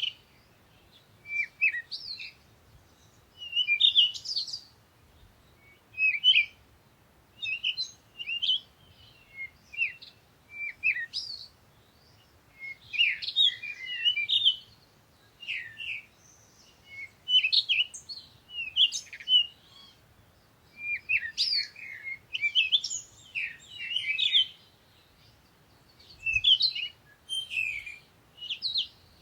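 Songbirds chirping and trilling in a forest, short high phrases coming every second or so, at times overlapping, with a faint low hum underneath.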